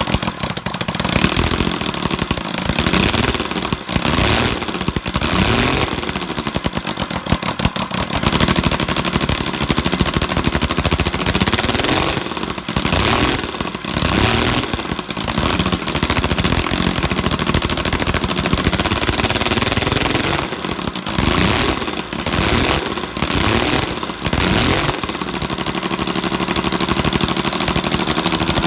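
Home-built three-cylinder radial engine running with no exhaust fitted, a rapid train of firing pulses. Its speed rises and falls unevenly for most of the time, then holds steadier near the end.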